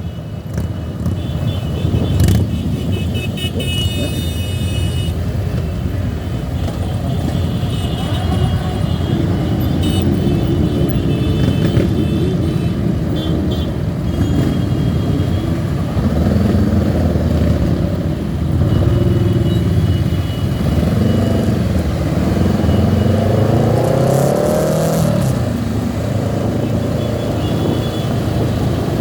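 Many motorcycle engines running together in a big group ride, with engines revving up and down in the second half. Horns sound in the first few seconds.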